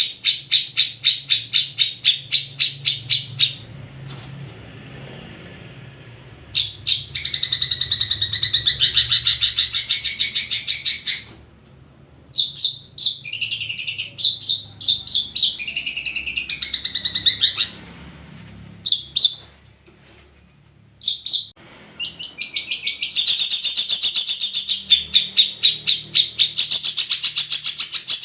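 Long-tailed shrikes (cendet) singing: fast runs of sharply repeated high notes, with a more varied, warbling stretch in the middle and a few short pauses.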